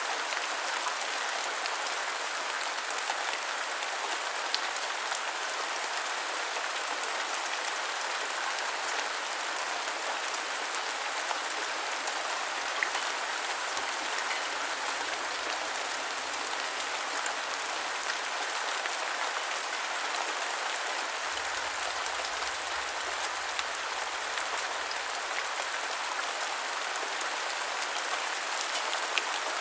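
Steady rain falling, an even hiss of drops with fine scattered patters on a surface.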